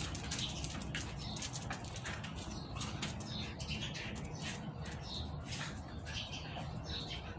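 Birds chirping repeatedly in short calls, over a steady low rumble.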